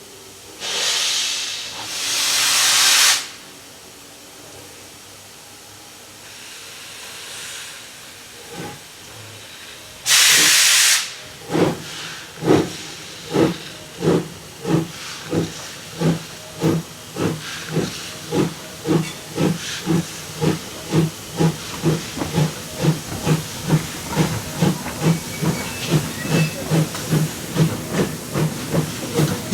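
Swedish SJ steam locomotive starting away: hissing releases of steam, the loudest about a third of the way in, then exhaust chuffs that begin about a second apart and quicken steadily to several a second as the train gathers speed.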